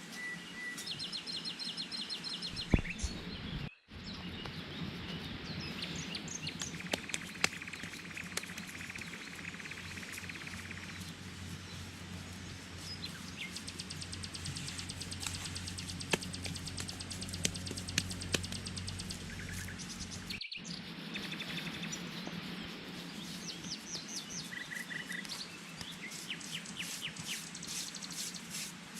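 Small birds chirping in quick repeated series, with an insect trilling high and steady partway through and a few sharp knocks now and then.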